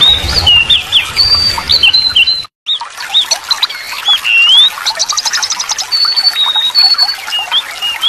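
Birdsong from several birds: short chirps and whistled notes that rise and fall, with a low rumble under the first couple of seconds. About five seconds in comes a rapid trill. The sound drops out for a split second about two and a half seconds in.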